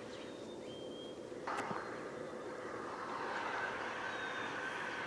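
Unexplained droning noise from the sky that comes in about a second and a half in over a steady faint hum, then swells slowly and gains a higher, hissing edge.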